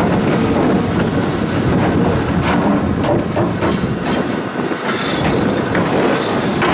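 Komatsu excavators working boulders: the engine runs under load while rock clatters and grinds against the steel bucket and against other rocks, with frequent irregular knocks.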